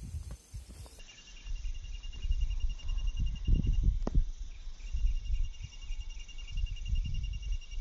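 Autumn insects trilling in a steady, fast-pulsing high chirr that breaks off briefly near the middle and resumes. Under it runs a louder, uneven low rumble.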